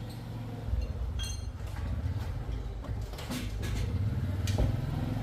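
A small engine running with a low rumble that grows louder, with a few light clicks and taps in the second half.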